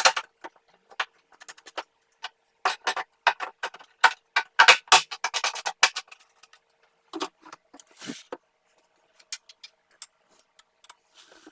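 Workshop assembly noises: a rapid, irregular run of sharp clicks and knocks from parts and tools being handled, densest a few seconds in, with a faint steady hum beneath.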